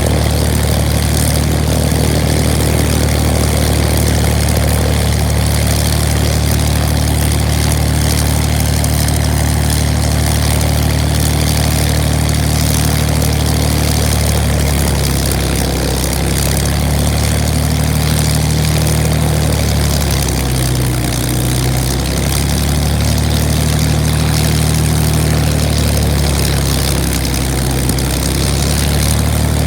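Supermarine Spitfire's V12 piston engine running steadily on the ground with its propeller turning. The low engine note wavers and beats from about halfway through.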